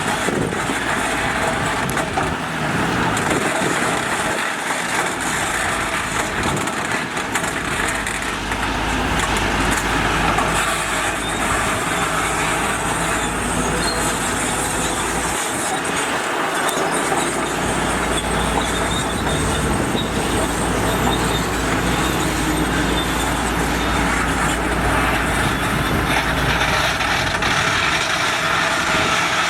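Heavy construction machinery engines running steadily at work, with a low rumble that swells and eases.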